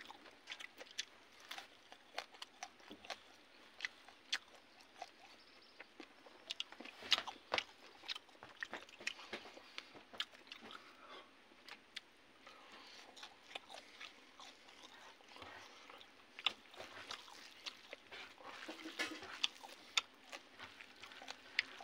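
Close-up mouth sounds of a man eating rice and fried fish by hand: chewing with many sharp, wet lip-smacks and mouth clicks at an irregular pace, several a second.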